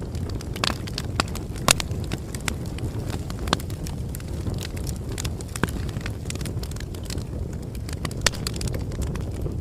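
Crackling bonfire: a steady low rumble of burning with irregular sharp pops and snaps of wood, the loudest about a second and a half in and again near the end.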